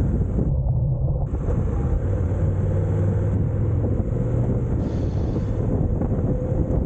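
Honda NC750X's parallel-twin engine running under way, a steady low drone. Wind buffets the microphone, dropping out briefly about half a second in and returning after about a second.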